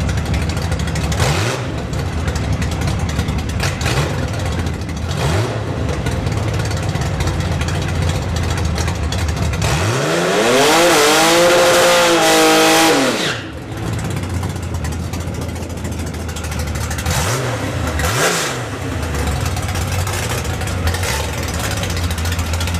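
Plymouth Cuda drag car's slant-six engine idling with short throttle blips. About ten seconds in it is revved up in a rising sweep and held at high rpm for about three seconds, then drops back to idle.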